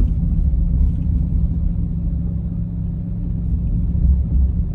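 A car driving along a road, heard from inside the cabin: a steady low rumble of road noise with an engine drone.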